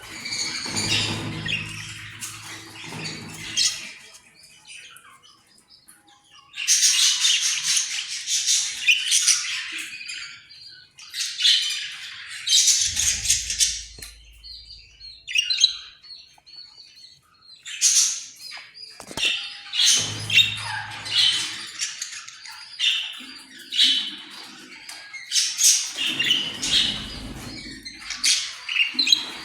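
Pet Australian parrot chattering and squawking in repeated bouts of a few seconds each, with short pauses between.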